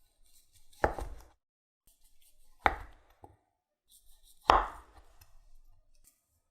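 Knife chopping down onto a cutting board three times, about two seconds apart, with light clatter between the strokes.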